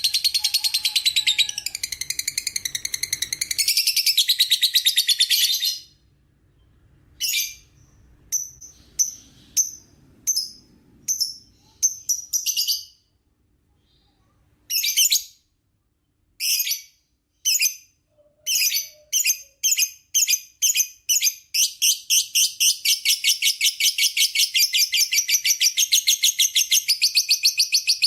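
Lovebird's long 'ngekek' chatter: a fast, high-pitched run of notes for about six seconds, then a series of separate short calls, then the fast run of notes again from about two-thirds of the way through.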